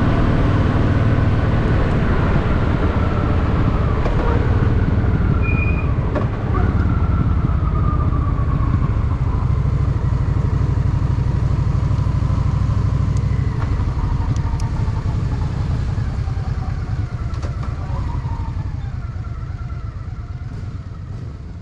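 Honda Shadow VT750's V-twin engine running as the motorcycle rides along, with a pulsing low exhaust note. The sound fades out over the last several seconds.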